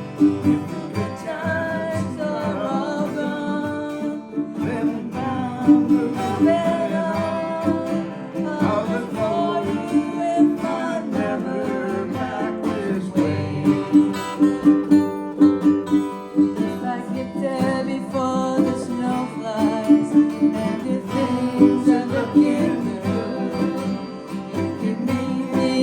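Country-folk music: a strummed acoustic guitar keeping a steady rhythm, with a melody line gliding over it.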